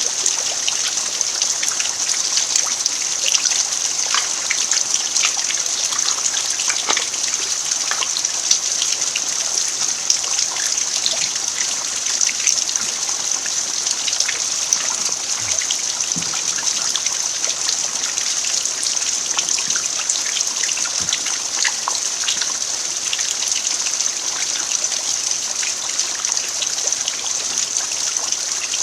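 Steady rain falling on a bare dirt yard: an even hiss dotted with many separate drop ticks.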